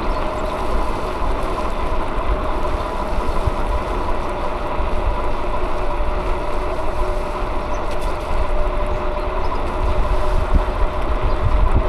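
Wind on the microphone and road noise from a bicycle in motion, with a steady hum running underneath.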